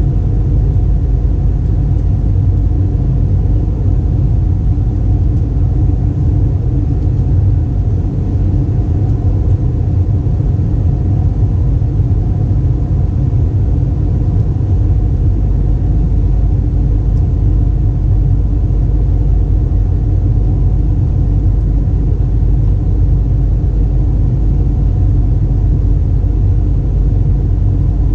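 Steady cabin noise of an Airbus A320 airliner in flight: a constant loud low rumble of engines and airflow with a faint steady hum above it.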